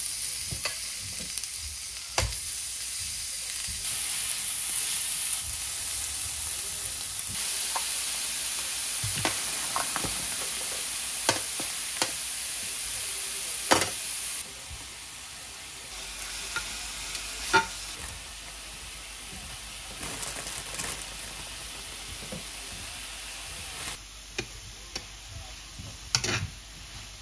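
Pork belly and vegetables sizzling in a square cast-iron pan, with metal tongs clicking and scraping against the pan as the food is turned. The sizzle is loud in the first half and quieter in the second.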